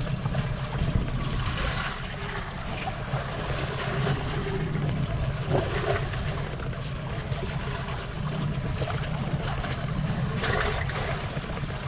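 Boat engine idling in reverse at almost no throttle, a steady low hum, with water splashing and trickling around the hull.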